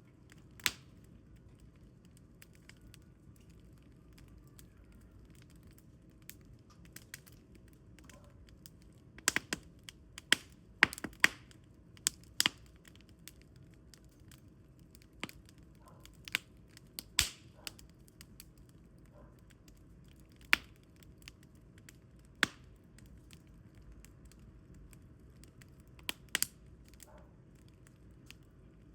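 Firewood burning with sharp, irregular crackles and pops over a faint steady background. The pops come in a busier cluster a third of the way in, then thin out to single snaps every few seconds.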